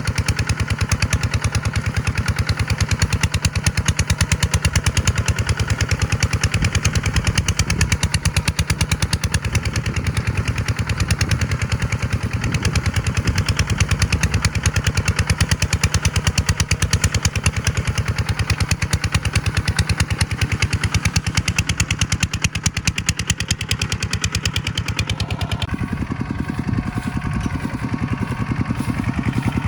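Tractor diesel engine running hard close by, a fast, even clatter of firing pulses. About 26 s in, its sound changes and the upper hiss falls away.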